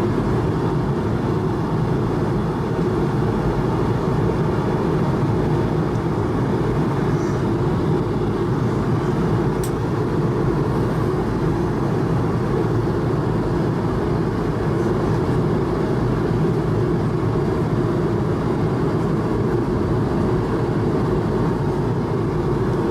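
Steady cabin noise of an Airbus A220-300 in flight: the rush of air along the fuselage and the hum of its Pratt & Whitney PW1500G geared turbofans, heaviest in the low end and unchanging throughout.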